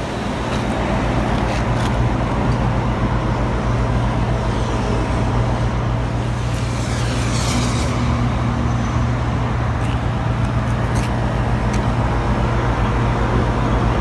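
Older York Sunline package heat pump running after a wiring repair, now heating: a steady low mechanical hum.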